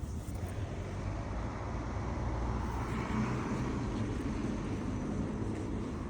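A vehicle passing, its noise swelling to a peak about three seconds in and then easing off over a steady low rumble.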